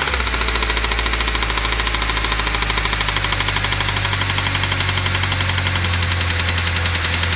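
ZMZ-405 inline-four petrol engine running steadily with a rapid, even ticking knock. The knock is there even with a newly fitted Euro-3 timing drive and new INA hydraulic lifters.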